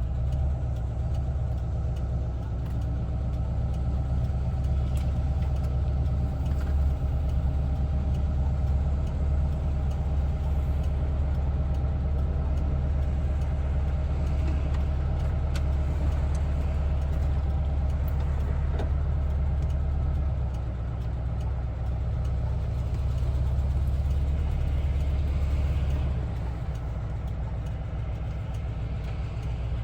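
1974 Volkswagen Westfalia camper's air-cooled Type 4 flat-four engine running with a steady low drone, easing off slightly about twenty seconds in and again near the end.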